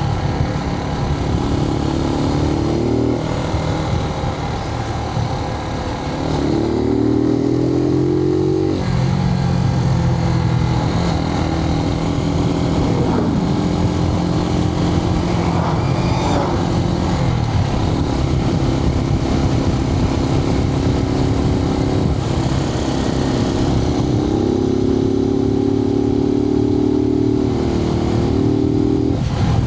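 Suzuki TU250X's single-cylinder engine under way, heard through a microphone inside the rider's helmet. Its pitch climbs and drops back twice in the first ten seconds as it shifts up through the gears, holds steady while cruising, then climbs again near the end.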